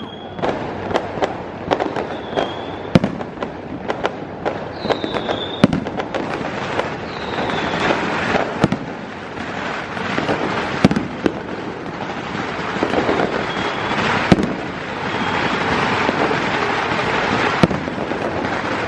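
Fireworks going off: repeated sharp bangs with several short high whistles, building into dense crackling from about eight seconds in.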